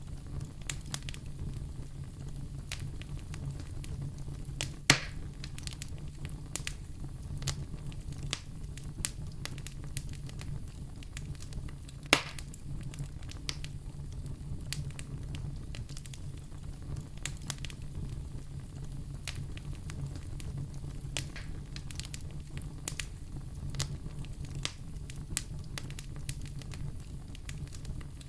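Wood fire crackling in a fireplace: a steady patter of small snaps over a low steady hum, with two louder pops about five and twelve seconds in.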